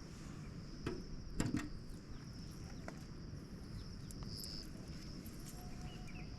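Insects, crickets by the sound, trilling steadily and high over a low outdoor rumble, with two short knocks about a second and a half in.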